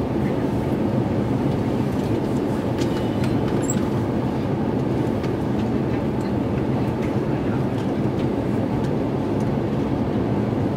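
Steady low rumble of cabin noise inside an Airbus A350-900 airliner, with its engines and airflow running evenly.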